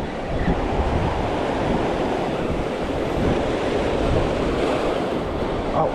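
Waves washing on the shoreline, with wind buffeting the microphone: a steady rushing noise.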